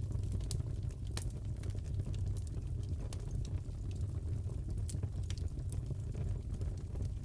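Fireplace crackling: a steady low rumble of burning with scattered sharp pops and snaps of the wood.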